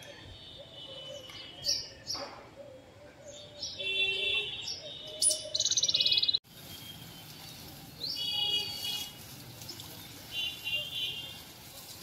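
Small birds chirping in short high calls, with a fast rapid trill about halfway through that cuts off abruptly, then more groups of chirps near the end.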